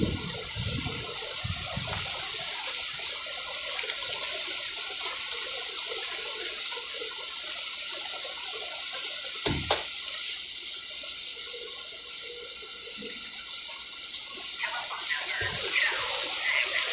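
Heavy storm rain pouring down in a steady hiss, with one sharp knock a little past halfway.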